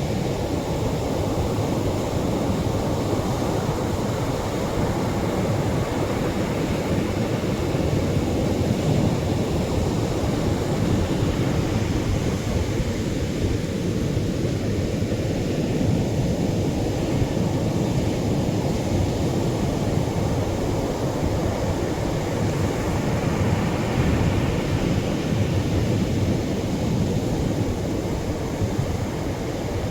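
Atlantic surf washing onto the shore in a steady, unbroken rumble.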